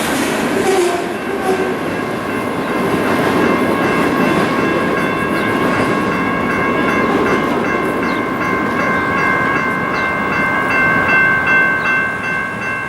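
Freight train cars rolling past with steady wheel and rail rumble. About a second in, a steady high-pitched ringing tone joins the rumble and holds to the end.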